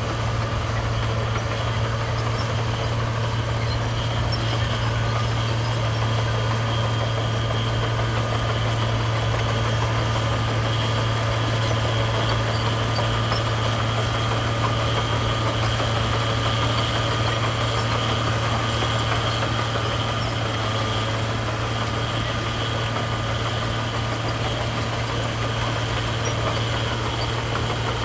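Heavy construction machine's diesel engine running steadily at a constant speed, a deep even drone with no revving or load changes.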